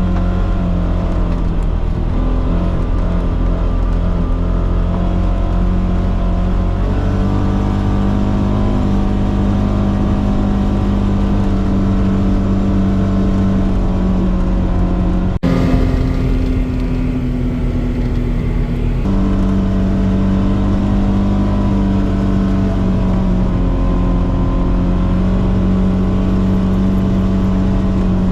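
Polaris Xpedition side-by-side's engine running steadily while driving on a trail, its pitch stepping up and down with the throttle. About 15 seconds in the sound breaks off for an instant and jumps to a different engine pitch.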